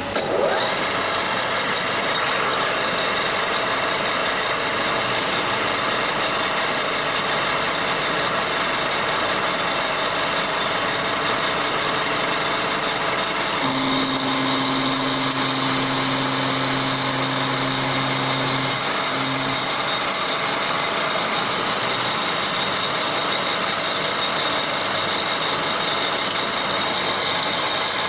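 Metal lathe running at 1250 rpm, turning a bolt from hexagonal steel bar with a steady machining whine. About halfway through, a low hum joins for around five seconds and then stops.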